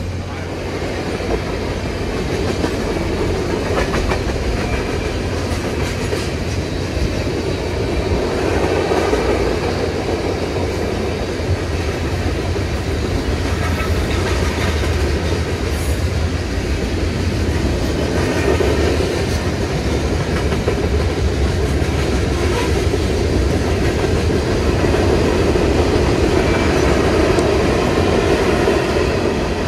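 Canadian National freight train of tank cars and hopper cars rolling steadily past, its steel wheels rumbling and clicking on the rails.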